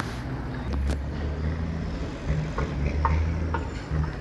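Diesel truck engine running low and steady, with a few short high squeaks about halfway through.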